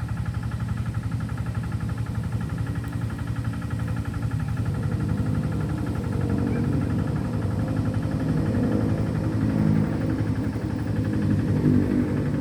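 A small engine running steadily with a fast, even putter, growing somewhat louder about halfway through.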